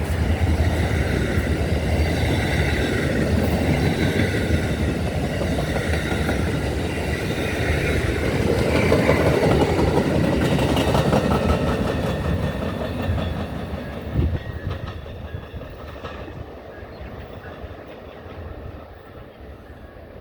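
Amtrak passenger train's cars rolling past at speed, a loud steady rumble of steel wheels on rail. From about two-thirds of the way through it fades away as the train moves off.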